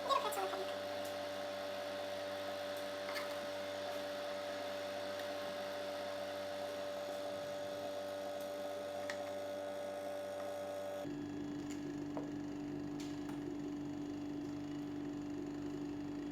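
A steady electrical hum. It starts with a short ringing clank and changes pitch abruptly about eleven seconds in.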